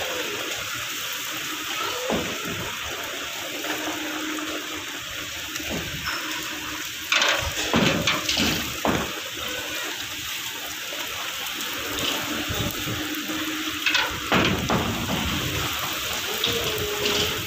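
Heavy rain pouring onto a brick rooftop and the surrounding roofs, a steady hiss of falling water. Gusts of wind swell it louder a few times, most clearly about seven seconds in and again near fifteen seconds.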